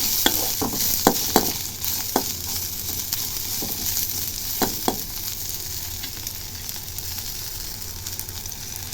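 Sweet corn, carrots and beans sizzling in ghee in a kadai while a spatula stirs and knocks against the pan. The knocks come thickest in the first couple of seconds and twice more about halfway through. The sizzle eases off slightly toward the end.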